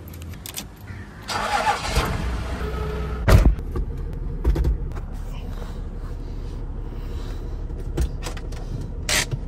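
Car engine cranked by the starter and catching about two seconds in, then idling steadily. A loud thump about three seconds in.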